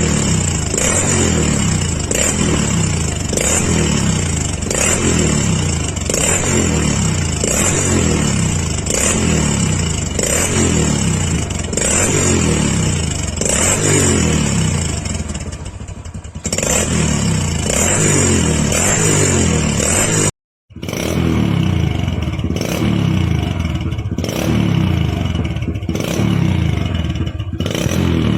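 Hero Splendor Plus single-cylinder motorcycle engine through an aftermarket GCL silencer, its throttle blipped over and over, about one and a half times a second. Each rev falls away with sharp cracks from the exhaust. The sound cuts out for a moment about two-thirds of the way through, then resumes.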